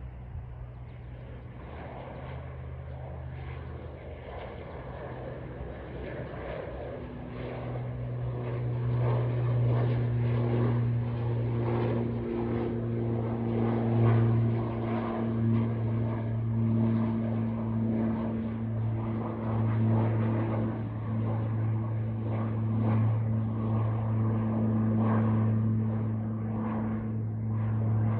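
Pilatus PC-12/47's single turboprop engine and four-bladed propeller going to takeoff power: a steady low propeller drone that grows louder from about seven seconds in and then holds at full power.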